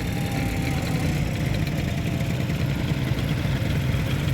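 Motorcycle engine idling with a steady, low, rapidly pulsing note.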